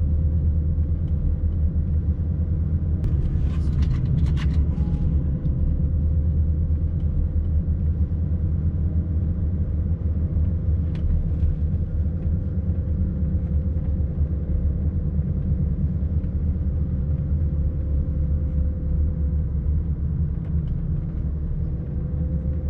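Steady low road and engine rumble of a diesel BMW E70 X5 SUV being driven, heard from inside the cabin, with a faint steady hum running through it.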